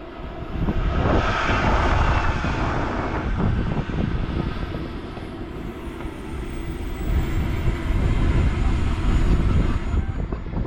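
Electric E-flite Sportix RC plane flying past, its motor and propeller whine swelling about a second in and fading, then building again near the end, over heavy wind rumble on the microphone.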